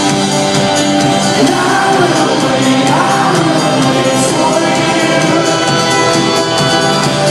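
Live band music from a concert, with singing and the crowd shouting along, echoing in a large hall.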